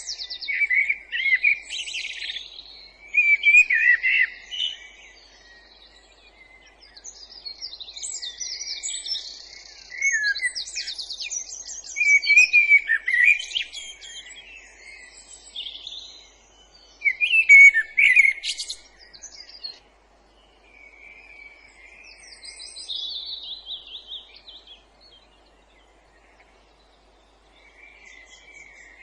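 Woodland songbirds singing a series of short, varied phrases with brief pauses between them, some quick trills among them; the song is loudest in the first two-thirds and sparser near the end.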